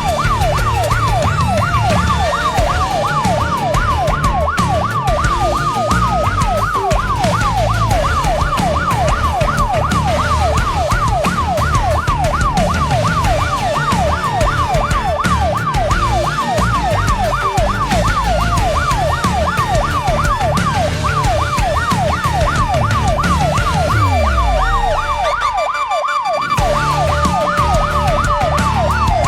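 Emergency vehicle sirens sounding together: one on a fast yelp, several sweeps a second, while another wails slowly up and down twice. A low rumble runs underneath and briefly drops away near the end.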